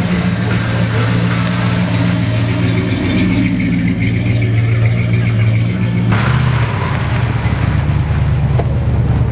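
Classic American car engines running at low speed with a deep, steady note as the cars roll past. The engine sound changes abruptly about six seconds in.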